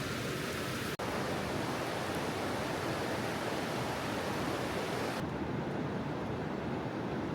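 Steady rushing of rain and a mountain stream. About a second in the sound briefly drops out, and about five seconds in it turns duller as the high hiss falls away, like a cut to another spot.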